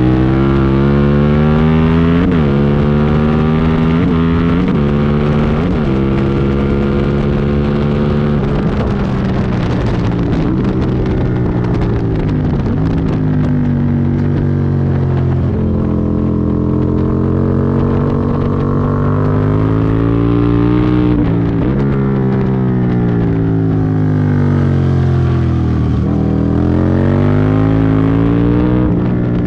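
Aprilia Tuono V-twin motorcycle engine heard from on board, its pitch climbing and dropping again and again as the rider accelerates, shifts and backs off, with wind rush over it.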